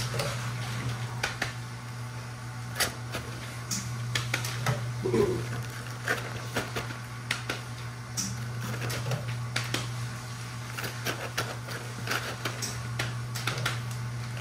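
Irregular clicks and knocks of a utensil stirring potatoes frying in a pan, over a steady low hum.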